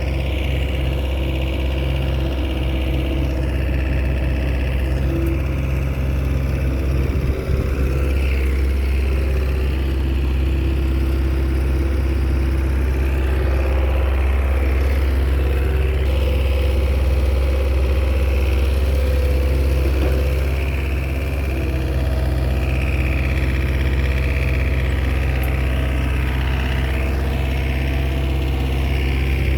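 Komatsu crawler bulldozer's diesel engine running steadily while it works, pushing soil. There is a brief knock about seven seconds in and a slight dip in the engine's level around twenty seconds in.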